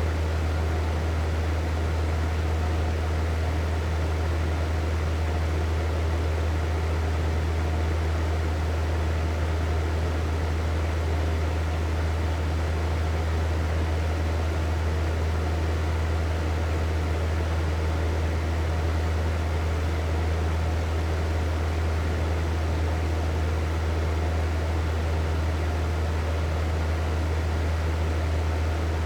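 Hair dryer running continuously: a steady fan-and-airflow hiss over a strong low motor hum, unchanging throughout.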